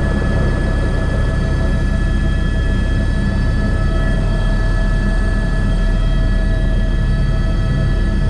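Airbus H125 single-engine turbine helicopter running steadily: a deep, even rumble of rotor and engine with several steady whining tones above it.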